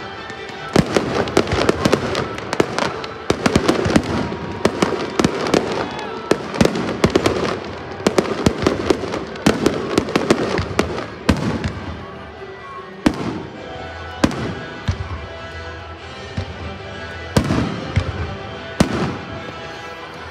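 Aerial fireworks shells bursting in a rapid barrage of bangs and crackles, thinning out in the second half to a few separate booms. Music plays underneath.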